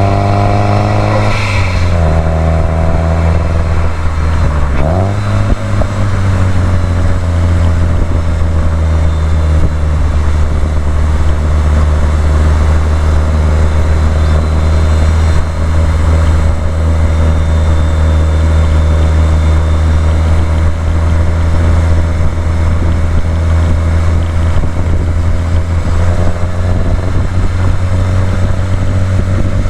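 Subaru WRX STI's turbocharged flat-four engine under way. It revs up, then drops in pitch at a gear change about a second and a half in. After a brief dip and rise in pitch around five seconds, it runs at a steady speed.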